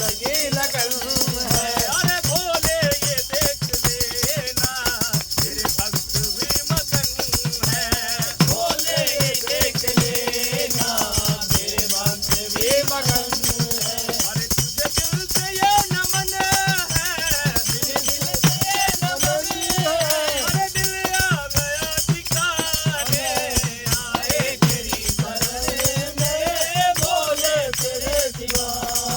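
A group of men singing a Hindu devotional bhajan (kirtan) in chorus, with jingling hand percussion keeping a fast, steady beat.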